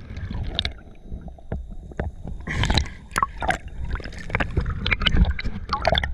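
Sea water sloshing and splashing close to the microphone in rough surf, with irregular splashes over a steady low rumble.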